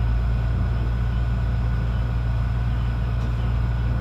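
PESA 620M diesel multiple unit under way, a steady deep drone with a faint steady high whine above it.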